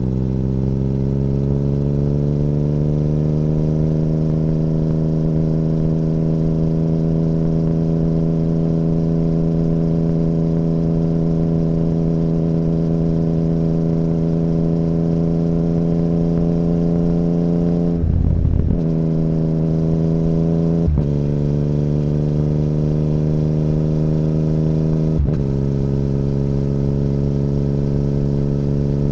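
2017 Yamaha MT-09's three-cylinder engine through an Akrapovic Racing Line carbon full exhaust with the DB killer removed, under way. The engine note rises over the first few seconds, then holds steady. About two-thirds of the way in it cuts out briefly and climbs again, with two more short breaks after that.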